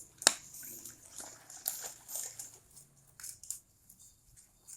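Parcel packaging being handled: scattered short rustles and crinkles, with a sharp click about a quarter second in.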